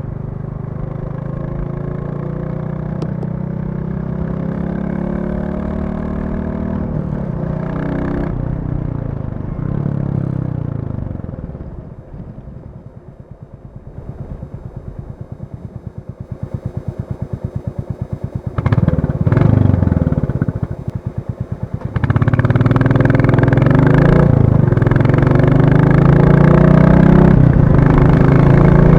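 Royal Enfield Classic 350's single-cylinder engine under way. It runs steadily, then eases off and drops to a low, evenly pulsing thump about halfway through. It picks up in a couple of short blips, then pulls hard and loud near the end.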